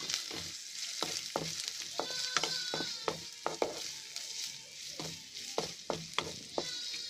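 Boiled chicken pieces with onions and masala sizzling in oil in a metal pan, while a spatula stirs and scrapes them, knocking against the pan at irregular intervals.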